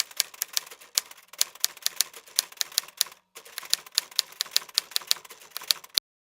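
Typewriter keys clacking in a rapid, uneven run of several strikes a second, with a brief pause near the middle, cutting off abruptly near the end.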